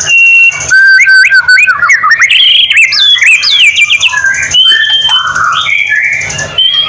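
White-rumped shama (murai batu) singing a loud, varied song of clear whistled notes and quick rising and falling slurs, one phrase after another.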